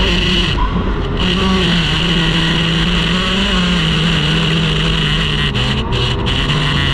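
Racing outboard motor on a T850-class race boat running hard at speed, its engine note wavering and dropping lower a little past halfway as the throttle eases, over a steady rush of wind and water.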